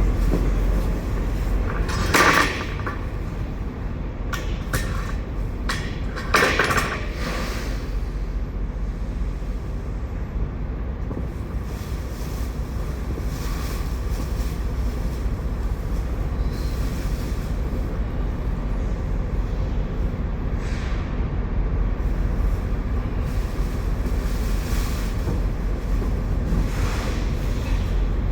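Steady low machine rumble with several short scraping knocks, the loudest about 2 and 6.5 seconds in, as stuck potatoes are scraped and knocked loose from a truck trailer floor.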